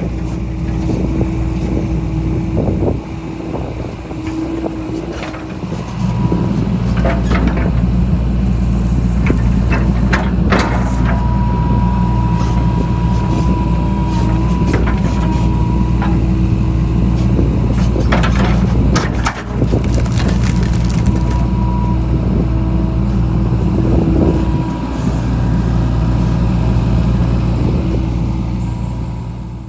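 John Deere 60G mini excavator's diesel engine running under working load, getting louder about six seconds in. Scattered knocks and cracks sound as the machine works through the dam debris. A thin steady whine is heard for several seconds in the middle.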